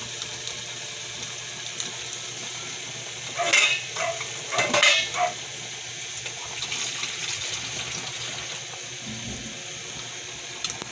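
Ham, carrots and mushrooms sizzling in a nonstick frying pan with a steady hiss, with a few louder bursts around the middle as a wooden spatula stirs them.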